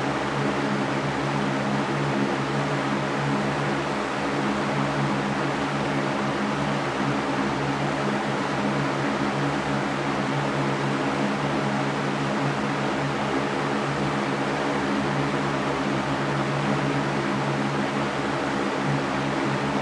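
Electric fan running steadily: an even rushing noise over a low, steady motor hum.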